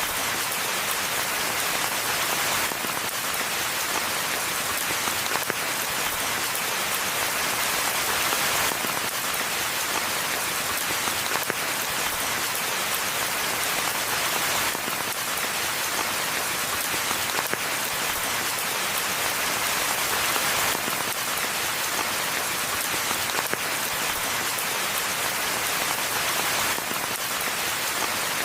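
Steady rain falling on a forest pathway: an even hiss, with individual drops striking close by.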